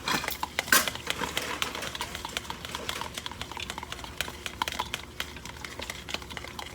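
Hot cooking oil crackling and popping in a frying pan, many small irregular pops. There are two louder bursts of spatter within the first second.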